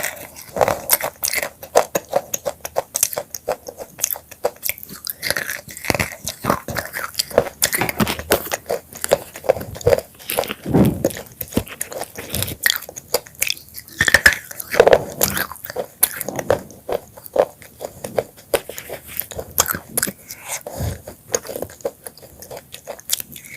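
Close-up crunching of broken black chips being bitten and chewed: rapid, irregular crackles and snaps from the whole time.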